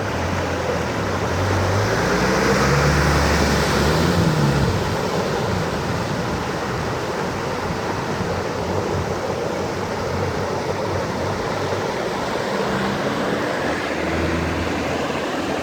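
Heavy rain pouring down steadily. A vehicle's engine runs through it, swelling and bending in pitch about two to four seconds in and again near the end.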